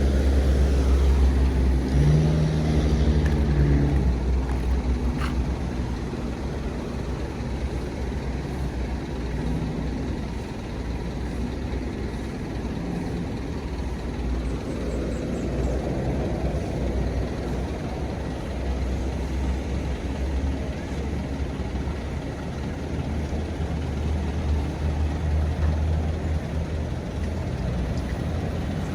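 Heavy diesel bus engine running as it passes, loudest with a low pitched engine note in the first few seconds, then a steady low engine rumble.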